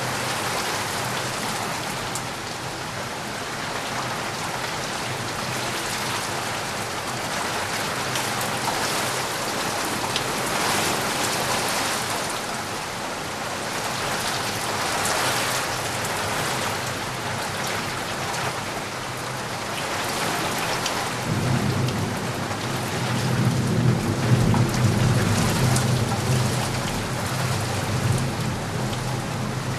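Steady rain falling. About two-thirds of the way in, a low rumble of thunder builds, is loudest a few seconds later and keeps rolling.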